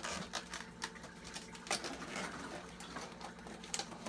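Scattered light clicks and scrapes of things being handled, over a steady low hum.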